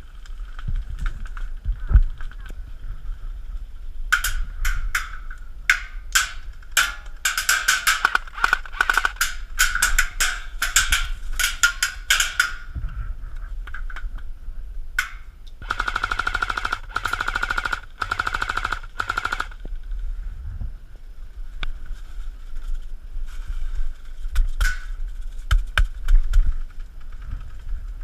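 Airsoft electric guns firing: a rapid, irregular run of shots and short bursts from about four to twelve seconds in, then a single shot and a sustained full-auto burst of about three and a half seconds.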